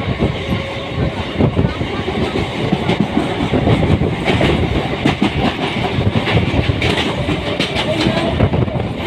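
Passenger train running on the rails: a steady, loud rumble of the wheels with many short knocks mixed in.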